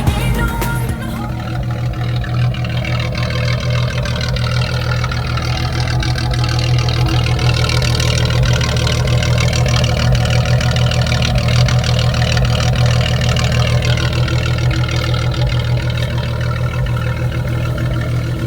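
Car engine idling steadily after a cold start, a constant low hum with no revving.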